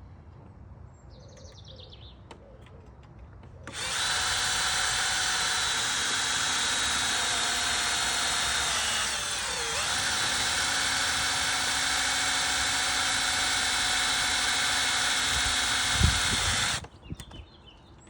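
Power drill with a 5 mm bit drilling into the Honda Super Cub's metal centre stand, making oil holes toward the seized pivot pin. It starts about four seconds in and runs steadily for about thirteen seconds. Its pitch sags briefly midway, a short knock comes just before it stops.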